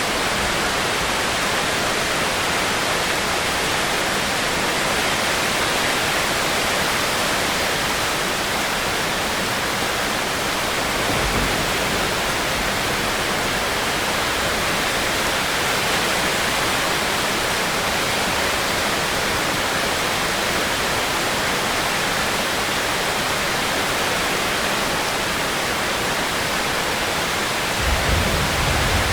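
Steady, heavy rain making a dense, even hiss. A low rumble rises briefly about eleven seconds in and again near the end.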